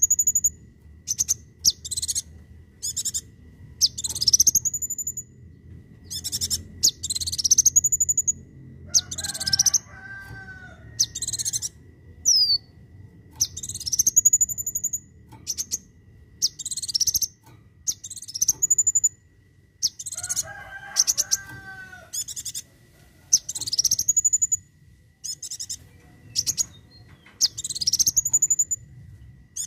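Kolibri wulung sunbird singing its sharp 'tembakan' phrases: quick clicky ticks ending in a high upward-sweeping whistle, repeated every second or two. Twice, about ten seconds in and again around twenty seconds, a lower, harsher call breaks in.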